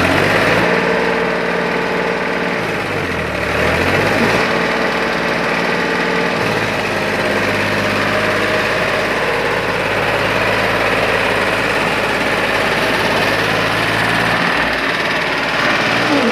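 Farmtrac Champion 42 tractor's diesel engine running hard under the load of a loaded trolley stuck in mud. The engine note sags and climbs back about three to four seconds in, then holds steady.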